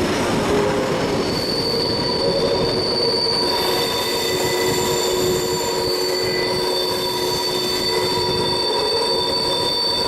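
Steel wheels of a steam-hauled train squealing against the rails over the steady rumble of the running train. Several high, steady squeal tones set in about a second in and grow fuller a couple of seconds later.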